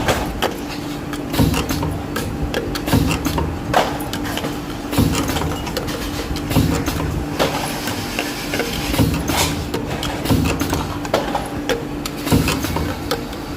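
Pneumatic spot welding machine working through repeated weld cycles. About every one to two seconds there are sharp clicks and a short low hum burst, over a steady hum.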